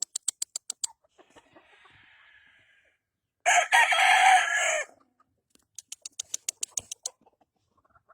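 A gamefowl rooster crows once, about a second and a half long, a little past the middle. Before and after it come quick runs of sharp clicks or taps, about eight in under a second each time.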